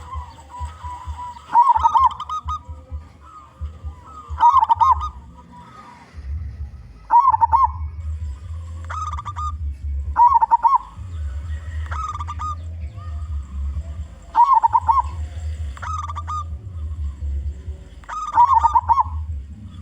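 Zebra dove (perkutut) cooing, giving its short stuttering coo phrases over and over, one every two seconds or so, with a low rumble underneath.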